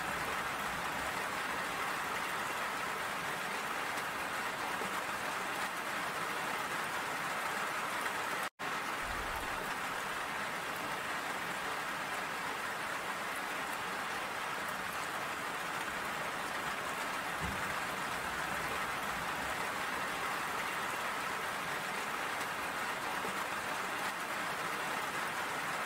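Steady rainfall, an even hiss of falling rain and drops, with a split-second dropout about eight and a half seconds in.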